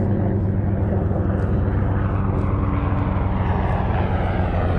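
Military aircraft engines making a steady, loud low drone overhead.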